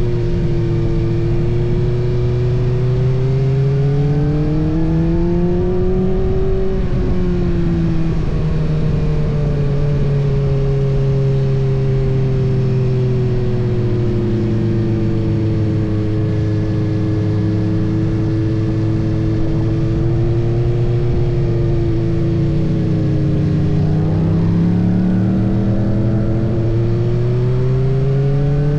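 Kawasaki ZX-6R's 636 cc inline-four engine under way, heard from the tank: revs climb over the first several seconds, drop suddenly about eight seconds in, ease lower and steady, then rise again near the end, over a haze of wind and road noise.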